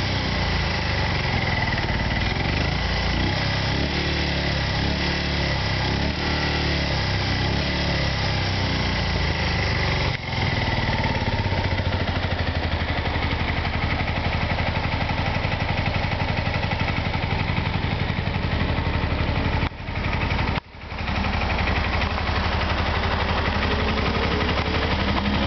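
Kawasaki Eliminator 250V's V-twin engine idling steadily. The sound drops out briefly twice about twenty seconds in, and the revs rise near the end.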